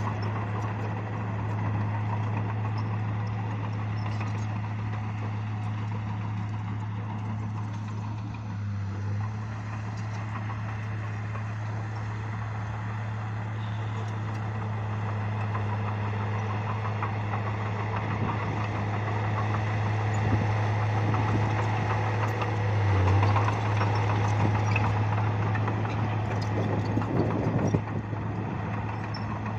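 Bulldozer's diesel engine running steadily with a constant low drone, growing a little louder and rougher in the second half.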